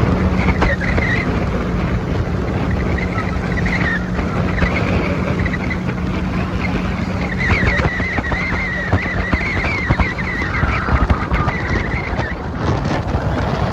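Motorboat engine running with a steady hum that drops out about ten seconds in, under wind buffeting the microphone.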